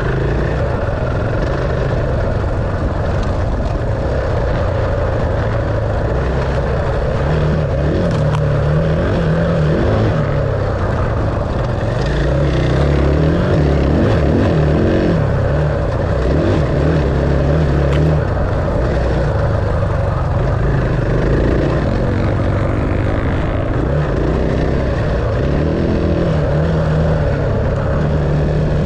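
Dirt bike engine running under riding load, its pitch rising and falling as the revs change over a continuous rush of wind and engine noise.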